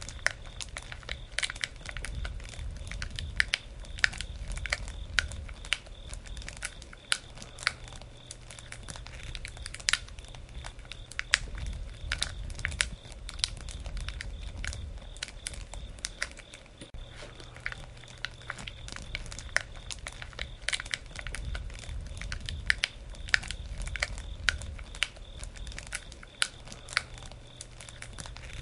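Campfire crackling: wood burning with many irregular sharp pops and snaps over a low rumble of flame that swells and fades every several seconds.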